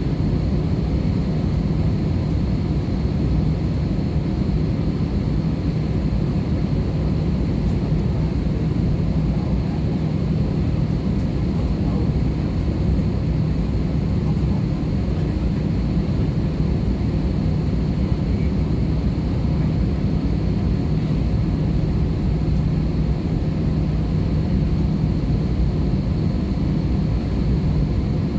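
Steady cabin noise of an Airbus A320-214 in flight, from its CFM56 engines and the airflow over the fuselage, heard from a window seat inside the cabin: an even, loud rush with a constant low hum.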